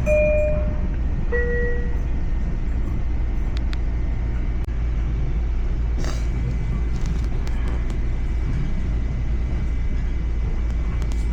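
Long Island Rail Road train with a steady low rumble, and a two-note falling chime at the start.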